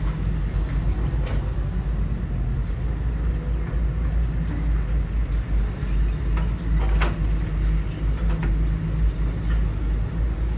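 Radio-controlled model construction machines working, heard as a steady low rumble with a few short clicks and scrapes, the sharpest about seven seconds in.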